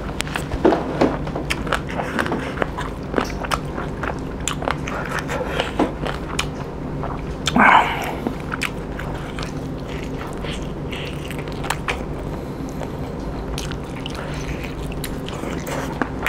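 Close-miked chewing of pork curry and rice: wet mouth clicks and smacks throughout, with one louder brief smack about eight seconds in.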